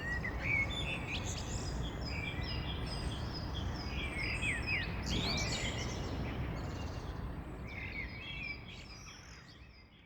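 Many small birds chirping and whistling at once, short overlapping calls, over a steady low background rumble. The sound fades out near the end.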